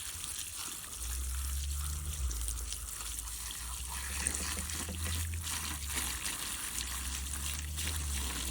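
Water running and trickling into a small, freshly lined garden pool as it is filled to pull the pond liner down tight. A low steady rumble joins in about a second in.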